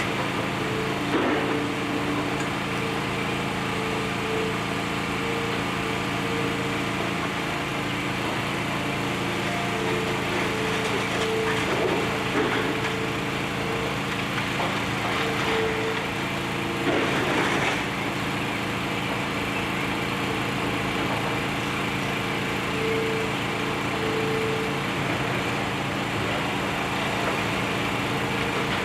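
Excavator's diesel engine running steadily, with a higher whine that comes and goes. A few brief, louder noisy moments, twice in the middle, fit debris being worked.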